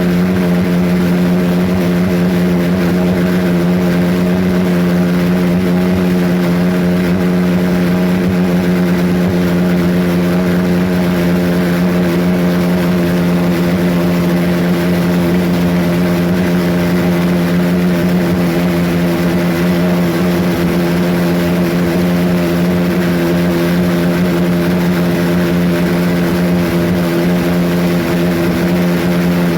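Homemade pulsejet engine running steadily: a loud, continuous drone at one fixed pitch that holds unchanged throughout.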